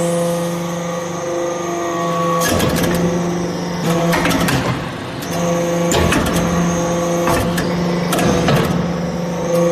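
Hydraulic aluminium-chip baler running: its pump motor gives a steady hum, broken several times by short bursts of clattering.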